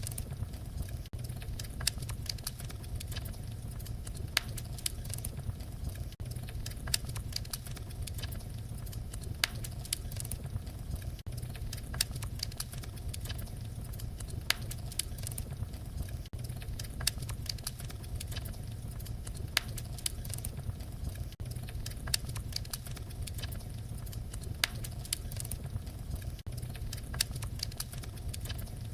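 Wood fire crackling and popping steadily, sharp snaps several times a second over a low, even rumble of burning.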